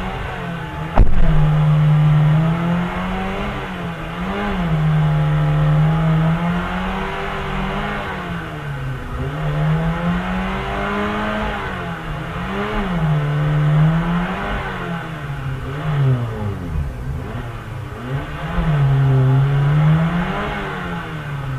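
Old sedan's engine revved hard over and over: held high for a few seconds at a time, with the pitch swinging up and down between holds. A sharp knock comes about a second in.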